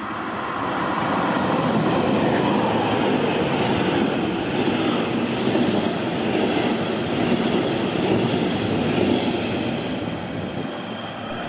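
Red double-deck regional train passing close by at speed: steady rolling of wheels on rails that builds over the first second or two and eases off near the end as the last coach goes by.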